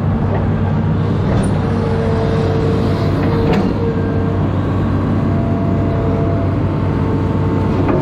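Amphibious excavator's diesel engine running steadily under work, with a couple of short metallic knocks about one and a half and three and a half seconds in.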